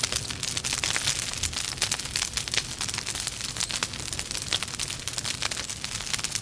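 Logs burning in a fireplace, crackling steadily: many quick, irregular snaps over a soft hiss.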